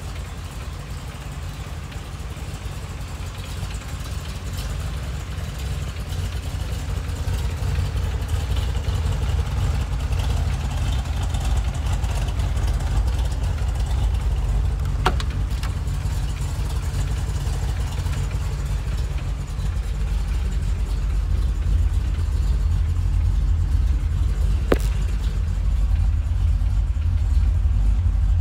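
1971 Corvette's 454 big-block V8, built to LS6 spec, idling steadily and growing gradually louder. Two sharp clicks, one about halfway through and one near the end.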